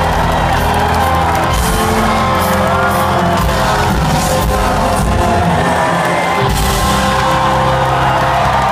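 Live rock band playing with the crowd singing along loudly and whooping.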